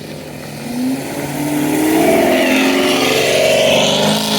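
A car accelerating hard, its engine pitch climbing more than once and growing louder from about two seconds in.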